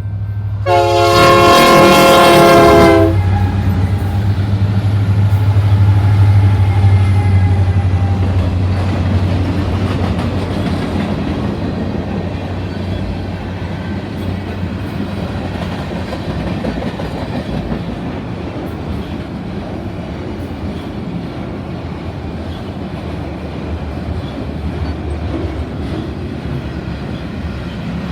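A diesel locomotive horn gives one chord blast about a second in, lasting about two seconds. Then Union Pacific's EMD SD70M diesel locomotives, each with a 16-cylinder two-stroke engine, pass with a loud low engine drone, which gives way to the steady rumble of freight cars rolling by.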